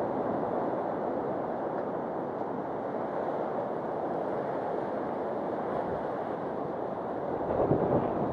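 Sea surf washing steadily, with wind rumbling on the microphone, swelling louder near the end.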